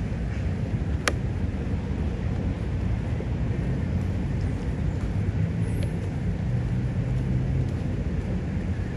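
Steady low rumble of distant city traffic, with a single sharp click about a second in.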